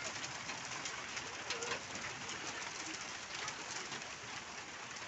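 Pigeons cooing, a few soft low calls, over a steady hiss flecked with small ticks.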